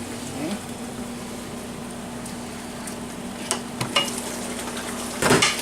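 Chicken and vegetable stir-fry sizzling in a wok with a steady hiss over a low hum. A few light clinks come about three and a half seconds in, then a louder clatter of a utensil against the wok near the end.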